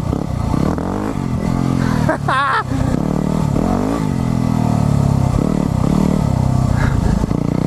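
A new supermoto-style motorbike being ridden with its exhaust baffle fitted, the engine revving up and down through the gears with its pitch rising and falling several times. A brief shout cuts in about two seconds in.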